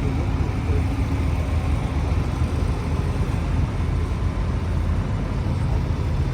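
An engine running steadily at an even speed, a low hum with no revving or knocks.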